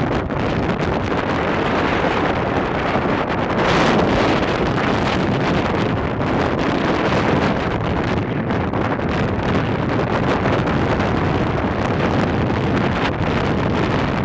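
Strong wind buffeting the camera microphone: a loud, steady rumbling roar with a stronger gust about four seconds in.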